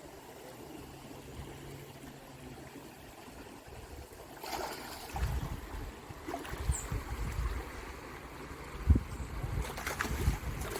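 A salmon stream running steadily. From about halfway, low rumbles and a few thumps on the microphone join it, the loudest near the end.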